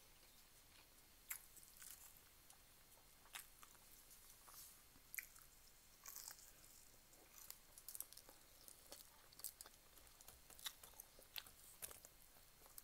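Faint close-up eating sounds: a person chewing food eaten by hand, with irregular small wet clicks and smacks from the mouth.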